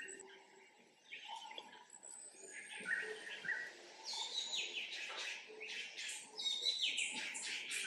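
Birds chirping and calling, with a denser run of quick, rapidly repeated chirps in the second half.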